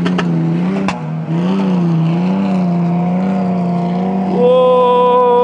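Land Cruiser engine running with revs rising and falling, then revved hard to a high steady pitch about four and a half seconds in before dropping back.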